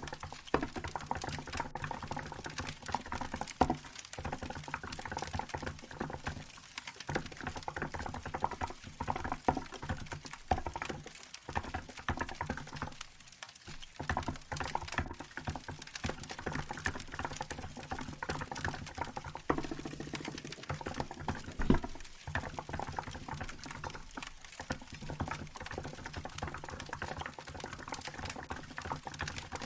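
Steady typing on a Hansung GK868B mechanical keyboard with milk keycaps, a rapid run of key clacks with brief pauses, over the crackle of a wood fire.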